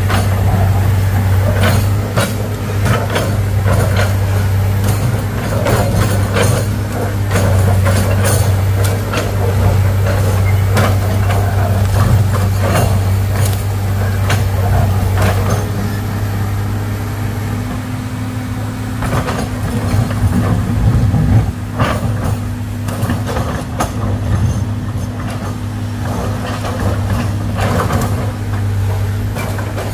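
Excavator's diesel engine running steadily under load, with repeated knocks and scrapes of the bucket working against hard rock.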